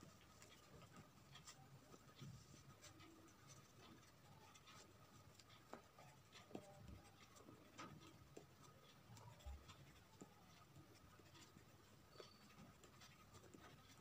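Faint, irregular scratching and light taps of drawing on paper.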